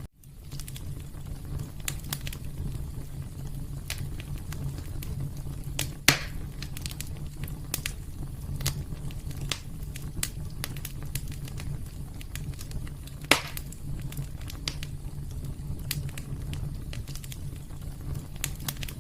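Wood fire crackling over a steady low rumble, with scattered small pops and two louder snaps, the first about six seconds in and the second about seven seconds later.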